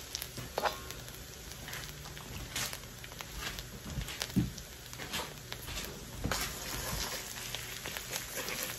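Garlic frying gently in butter in a cast-iron wok on low heat: a soft sizzle with scattered crackles and pops. A wooden spoon starts stirring it near the end.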